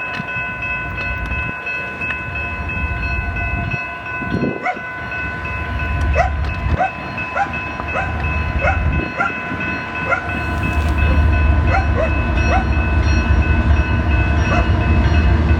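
Train passing with a low rumble that grows louder near the end, while a railroad crossing bell rings steadily at about two strikes a second.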